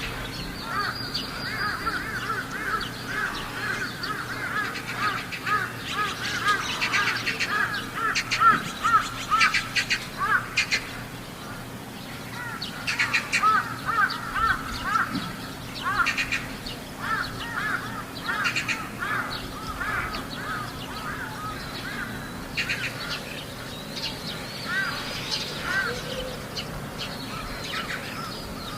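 Crows calling in rapid runs of short harsh notes, several a second, with a busy stretch about a quarter of the way in and another near the middle.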